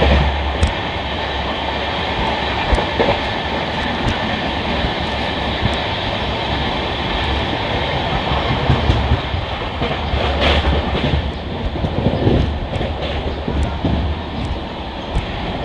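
Passenger train running at speed, heard from aboard the coach: a steady rumble of wheels on the track with irregular clicks and knocks.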